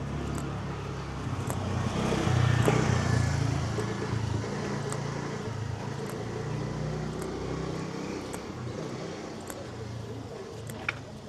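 A motor vehicle passing close by on the street, its engine rumble swelling to its loudest about two to three seconds in and then fading away.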